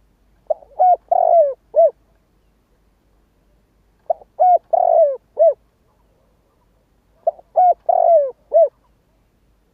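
Spotted dove cooing: three repeated phrases, each of two short notes, a longer note and a final short note, a few seconds apart.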